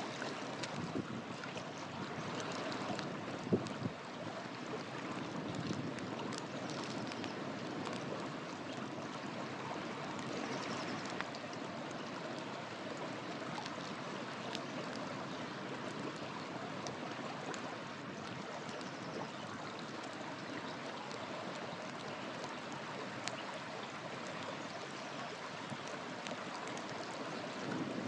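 River water flowing steadily, with a wood campfire crackling over it in scattered sharp pops, one louder pop about three and a half seconds in.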